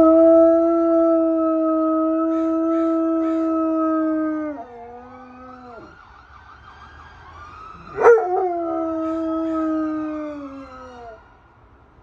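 A dog howling in reply to sirens: two long, loud, held howls, the first about four seconds and the second about three, each sliding down in pitch as it ends. A faint wailing siren can be heard between and under them.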